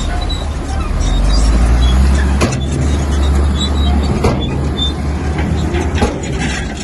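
Komatsu bulldozer's diesel engine running hard under load, growing louder about a second in, with three sharp knocks about two and a half, four and six seconds in.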